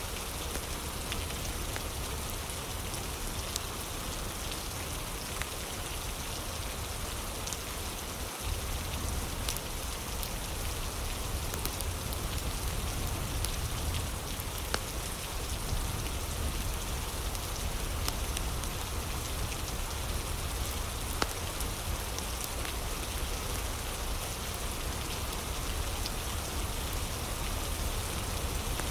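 Steady rain ambience with a fire crackling: a constant hiss of rain with scattered small pops and clicks.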